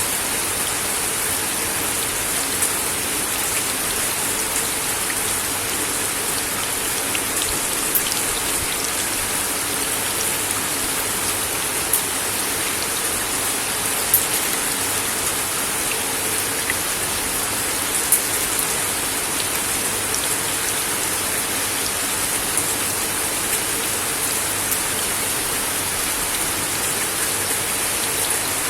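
Steady rain falling on a wooden deck, an even hiss with scattered louder drops striking the boards.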